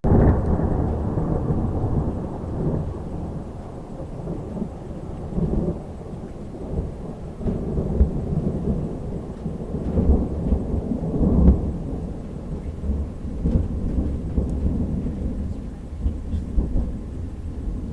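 A really loud thunderclap rumbling on and on in rolling swells, with rain falling, heard from inside an RV.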